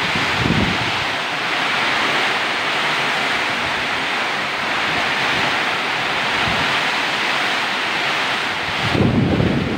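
Steady rushing noise, with low rumbles of wind on the microphone about half a second in and again near the end.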